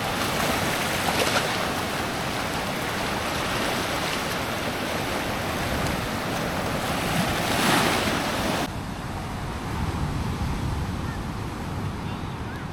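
Surf breaking on a beach, a steady wash of waves with wind on the microphone, one wave swelling louder near eight seconds in. The sound then cuts abruptly to a duller, quieter rumble.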